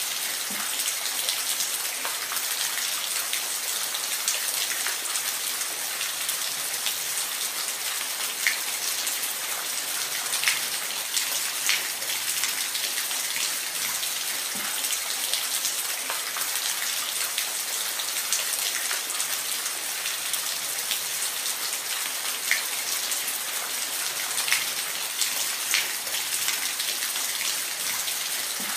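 Falling water hissing steadily, with scattered sharp drips and splashes standing out from it.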